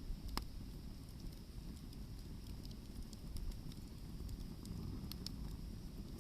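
Hardwood firewood burning in an open fire, crackling with scattered sharp pops: a strong one about half a second in and two close together near the end, over a steady low rumble.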